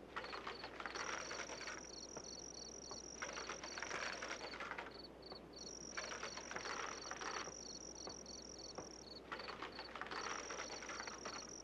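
Faint insect chorus. A high, steady trill switches on and off every few seconds over a regular high chirping about three times a second.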